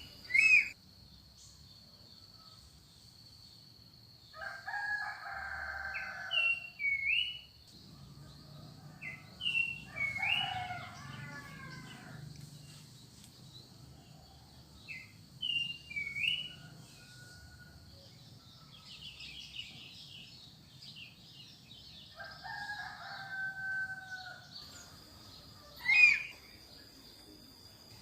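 Fowl crowing three times, each crow about a second and a half long, among repeated short, sharp chirps from smaller birds. A steady high-pitched buzz runs underneath, stops about eight seconds in and comes back near the end. A sharp loud click sounds at the very start and again about two seconds before the end.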